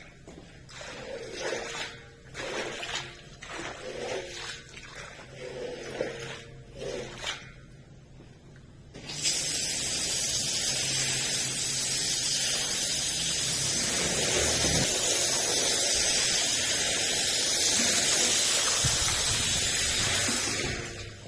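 Water spraying in a steady loud hiss that starts suddenly about nine seconds in and dies away near the end. Before it come short separate wet sounds, about one a second.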